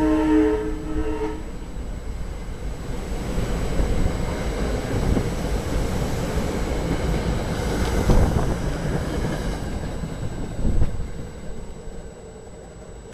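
A SEPTA Regional Rail commuter train's horn sounds a short blast at the start, then the train passes, rumbling with clattering wheels, the noise dying away near the end.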